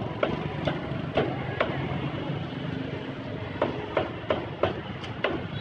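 Cleaver chopping on a cutting board: sharp, evenly spaced chops about three a second, pausing for a second and a half midway, then carrying on.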